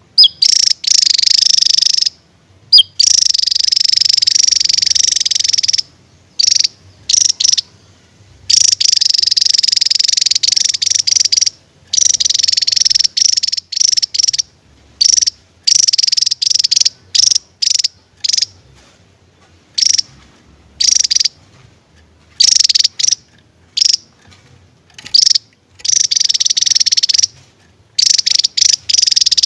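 Javan tesia singing loudly: long, high, buzzing trills of a few seconds each, broken by short quick notes and brief pauses.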